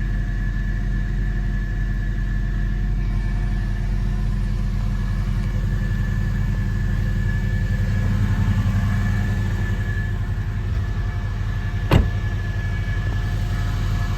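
1999 Porsche 911 Carrera's flat-six engine idling steadily from a cold start, with a B&B exhaust; the idle is smooth and even, swelling slightly about eight seconds in. A single sharp click sounds about twelve seconds in.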